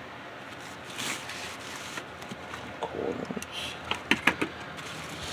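Small plastic model railroad cars and their box being handled: scattered rattles and rustles, with a cluster of sharp clicks about four seconds in.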